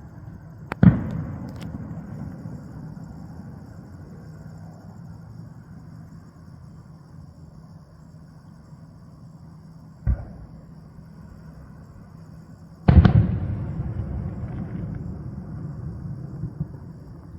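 Aerial fireworks shells bursting. There are three booms, one a second in, a smaller one about ten seconds in, and the loudest about thirteen seconds in. Each sharp bang rolls away in a long echoing rumble.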